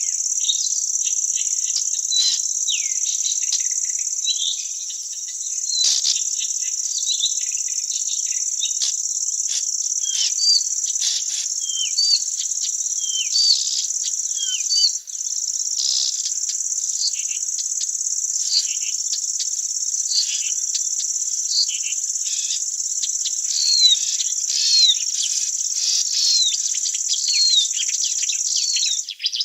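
A steady, high insect trill, of the kind made by crickets or cicadas, runs on without a break and stops just before the end. Many short, downward-sliding bird chirps come through over it, several each second.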